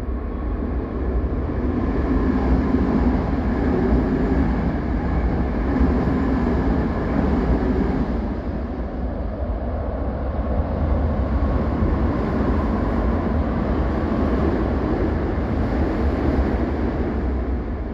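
Two express trains, a Toei 5300-series set and then a Keisei 3000-series set, running through the station one after the other without stopping. Their wheels on the rails make a steady rumble that eases briefly about halfway through.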